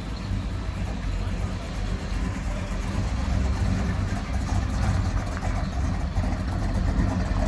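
Car engines idling with a low rumble as cars drive slowly in, getting a little louder about halfway through.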